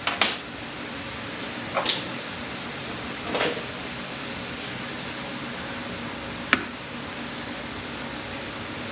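Four short metallic clicks and clinks from parts and tools being handled on a partly dismantled automatic transmission, the sharpest about six and a half seconds in, over a steady background fan hum.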